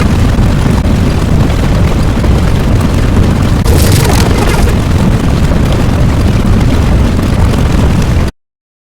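Loud, continuous rumbling roar, with a brief hissing burst about four seconds in, cutting off suddenly near the end.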